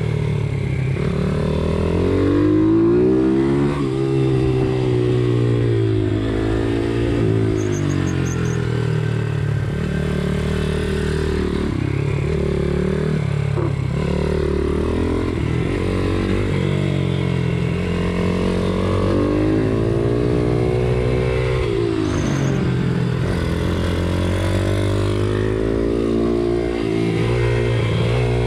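Pit bike engine racing, its revs rising and falling every few seconds as it accelerates and backs off through the corners, over the steadier drone of engines underneath.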